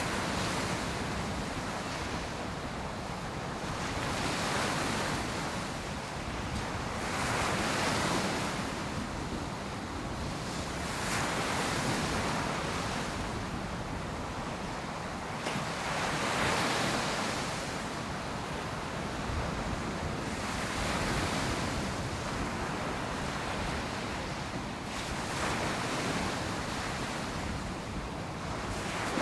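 Ocean surf breaking on a beach: a rushing wash of waves that swells and falls back about every four seconds.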